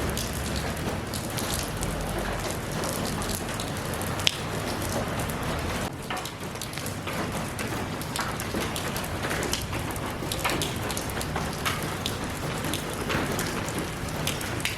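Steady rain falling, with many individual drops hitting a surface close by and one sharper drop-tick about four seconds in.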